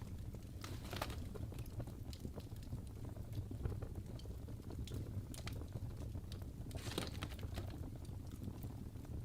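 Wood fire crackling in a fireplace: a steady low rumble of flames with frequent sharp pops and snaps from the burning logs, two louder snaps about a second in and about seven seconds in.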